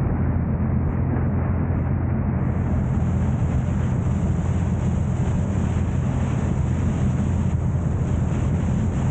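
Steady low rumble of a car driving, with road and wind noise on the microphone.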